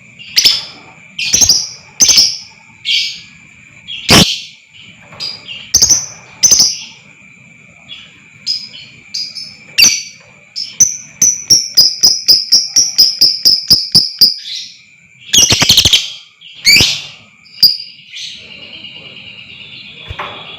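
Lovebird calling with sharp, shrill chirps, breaking about halfway in into a rapid chattering trill of about seven notes a second (the long 'ngekek'), then more loud shrieks. A faint steady high tone runs underneath.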